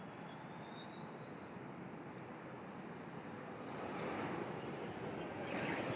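Jet airliner noise, the turbofan engines of a CRJ-700 regional jet: a steady rumble under a faint high whine that rises slowly in pitch, growing a little louder in the second half.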